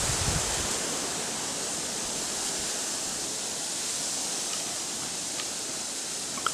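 Steady hissing outdoor ambience, with a gust of wind on the microphone dying away at the start and a few faint short ticks near the end.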